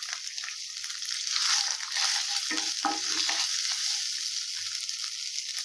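Chopped green chillies frying in hot oil in a non-stick kadai with a steady sizzle. A wooden spatula stirs them and scrapes across the pan a few times about halfway through.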